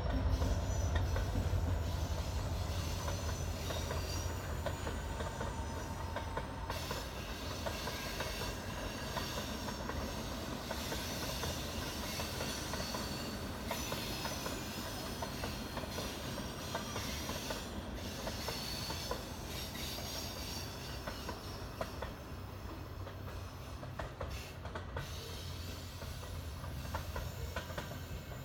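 Canadian Pacific train rolling past: a steady low rumble, with wheels clicking on the rails and a high wheel squeal coming and going.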